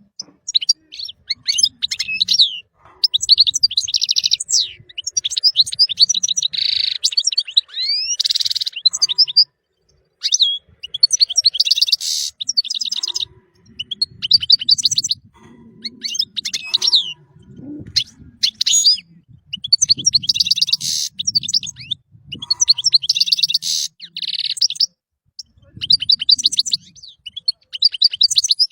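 European goldfinch singing: phrases of rapid, high twittering trills and liquid sliding notes, each lasting a second or few, separated by short pauses.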